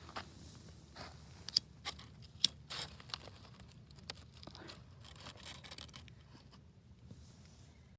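Paper or tinder crinkling and tearing, with a few sharp irregular clicks, as a campfire is being lit.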